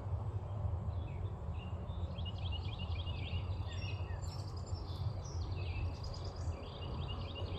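Small birds chirping in quick series of short high notes, several calls overlapping, over a steady low background rumble.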